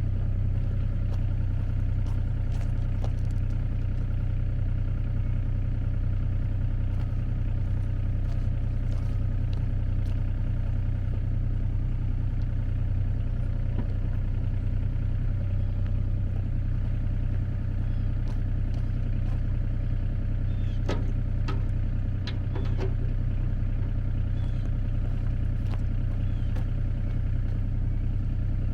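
An engine running steadily at idle, with a few sharp clicks about three-quarters of the way through.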